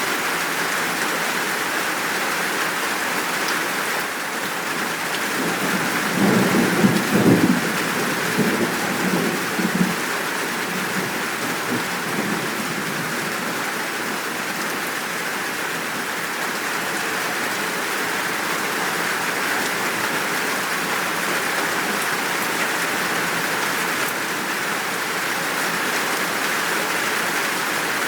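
Steady heavy rain falling throughout, with a low roll of thunder about six seconds in that rumbles for roughly four seconds and fades.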